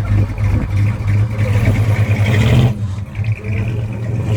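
Dodge Charger's engine revving through a mild burnout, the noise building and then cutting off suddenly about two-thirds of the way through, after which the engine keeps running.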